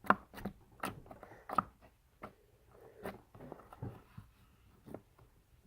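Slime being squished and stretched by hand, giving a run of irregular wet clicks and small pops, thickest in the first two seconds and sparser after.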